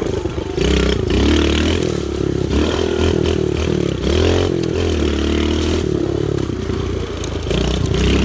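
Pit bike engine being ridden hard, its pitch rising and falling as the throttle is opened and closed, with a brief drop in revs about four seconds in and again near seven seconds.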